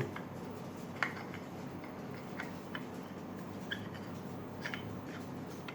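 Faint, irregular small clicks and ticks as an industrial camera is screwed by hand onto the C-mount thread of a microscope zoom lens, over a low steady room hum.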